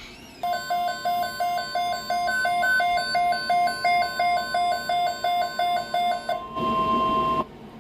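Weather-alert tone for a severe thunderstorm watch: rapid beeping about three times a second over a steady high tone. The beeping stops near the end and the steady tone holds briefly before cutting off abruptly.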